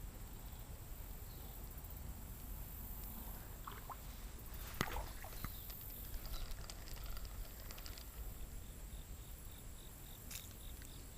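Quiet outdoor ambience: a low rumble of wind on the microphone, with a few faint clicks and taps, one a little louder about five seconds in. A faint, evenly pulsing high chirp sets in near the end.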